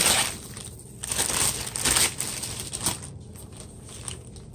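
Plastic packaging crinkling and rustling as it is handled, in a few noisy bursts that die down after about three seconds.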